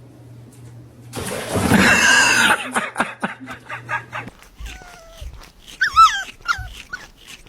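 A dog making a loud, rough vocal burst about a second in, then short, high yips and whimpers near the end.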